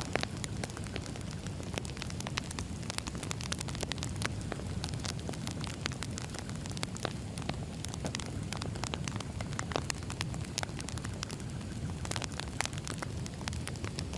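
Burning firewood: a steady low rumble of the fire with many sharp, irregular crackles and pops from the logs.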